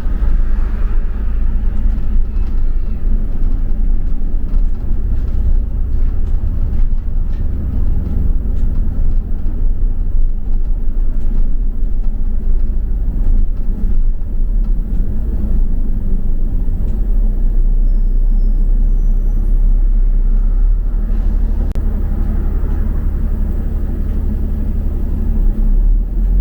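London double-decker bus running along the road, heard from inside: a steady low engine and road rumble with faint rattles.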